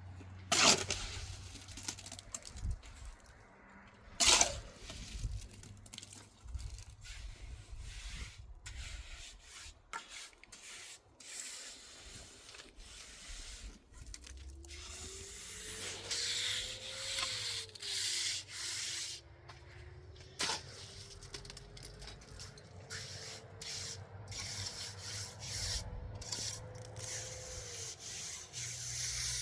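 Cement mortar being scraped and rubbed with a trowel during block masonry, in many short rough strokes. Two sharp knocks come about a second in and again about four seconds in. In the second half a faint tone glides slowly up and down.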